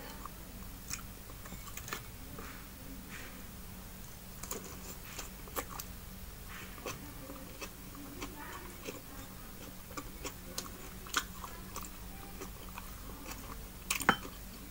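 Close-up mouth sounds of eating fried fish and fresh tomato-and-onion salad by hand: scattered chewing and lip smacks, with a louder cluster of smacks near the end. A faint steady hum runs underneath.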